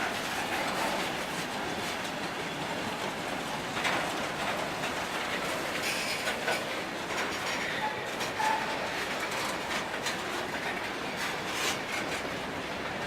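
Freight train cars rolling past at a crawl: a steady rolling noise of steel wheels on rail with irregular clicks as wheels cross rail joints, and two brief faint squeaks a little past the middle.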